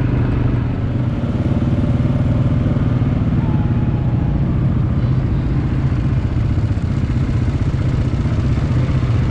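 Quad bike (ATV) engine running steadily at an even speed.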